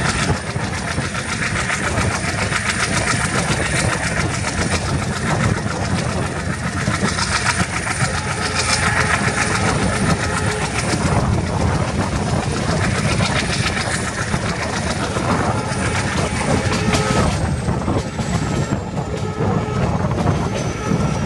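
Passenger coach wheels running fast over the rails, a steady rumble with rapid clatter, heard from the coach's open doorway. A faint high tone slides downward near the end.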